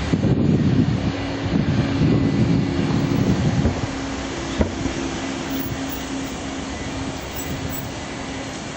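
Airliner engine noise at an airport: a steady drone with a low hum, rumbling in surges over the first few seconds and then slowly fading.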